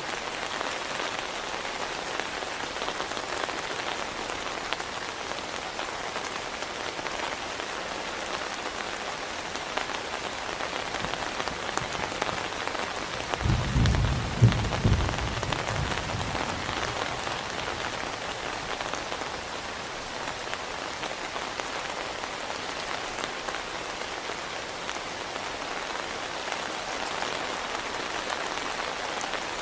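Heavy rain falling steadily. About halfway through, a low rumble of thunder swells for two or three seconds.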